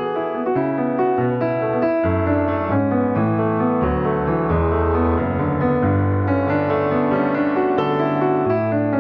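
Piano music: held chords and melody notes over a low bass line that comes in about two seconds in.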